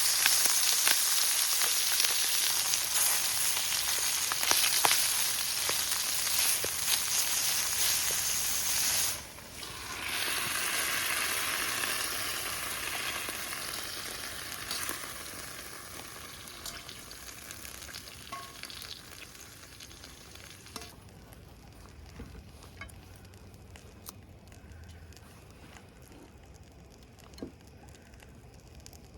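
Food frying and sizzling in a hot pan over a campfire, with scattered pops. The sizzle breaks off briefly about nine seconds in, comes back, and then slowly dies down. Over the last third only faint ticks are left.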